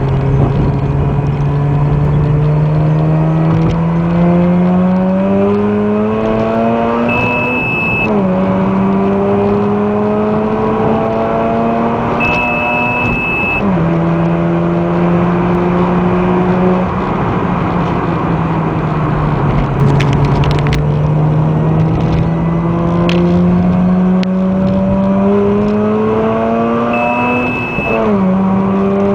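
Mazda RX-8's two-rotor Wankel engine breathing through a dual cat-back exhaust, heard from inside the cabin while driving through the gears. Its pitch climbs steadily, then drops sharply at each of three gear changes. A short electronic beep sounds just before each drop.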